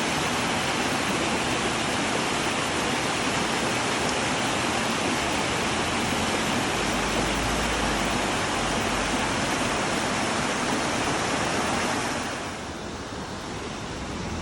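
Steady rush of a fast-flowing mountain stream, the Kibune River, pouring over rocks and weirs. It turns quieter and duller near the end.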